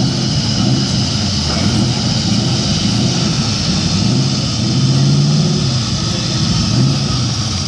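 Pickup truck engine running hard under load as it pulls a weighted sled, with the engine note shifting up and down and loudest about five seconds in.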